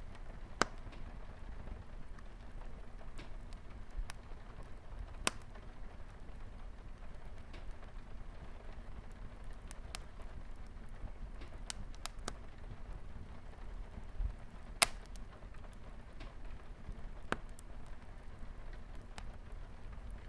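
Wood fire crackling in a fireplace, with scattered sharp pops (the loudest about half a second in, at about five seconds and near fifteen seconds), over the steady patter of light rain on a window.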